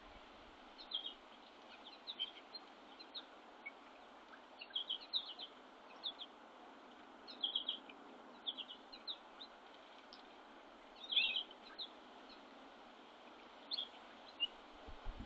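Small songbirds at a feeder giving short, high chirping call notes in scattered bursts, with a busier flurry of calls about eleven seconds in, over a faint steady outdoor hiss.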